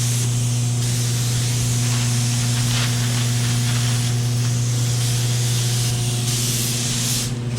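Compressed-air spray gun hissing in stretches, the longest near the end stopping sharply as the trigger is let go. A steady low hum runs underneath.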